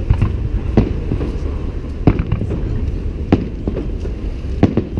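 Festive fireworks display: a string of sharp bangs, some in quick pairs, over a steady low rumble.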